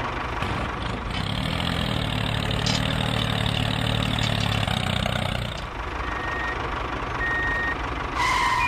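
Tractor engine running steadily, easing off about five and a half seconds in, then two short high beeps and a louder two-note tone near the end.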